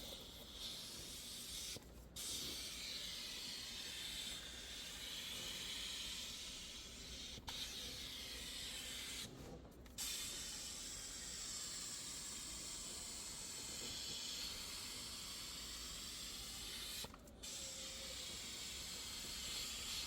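Handheld pressurised cleaning spray gun hissing steadily, its trigger let go briefly three times.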